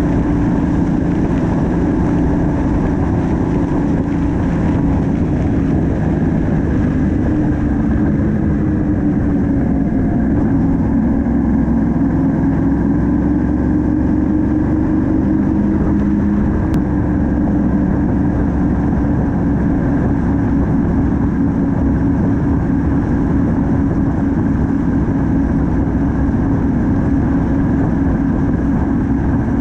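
Yamaha MT-07's parallel-twin engine running under way, heard from on board the motorcycle over steady wind and road noise; its pitch sags a little and picks up again around the middle.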